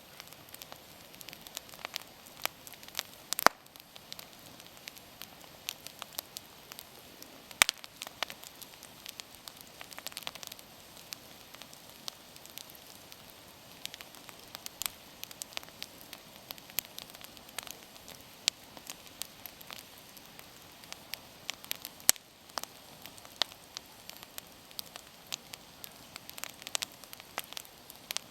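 Wood campfire burning with a soft steady hiss and frequent irregular crackles and pops, a few sharper pops standing out.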